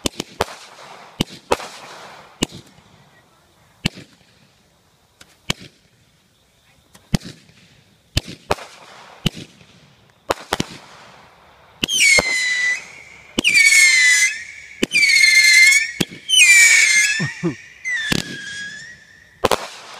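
Fireworks going off one at a time as separate sharp bangs. About twelve seconds in come five loud, high-pitched shrieks of about a second each, each dropping in pitch and then holding, before two more bangs near the end.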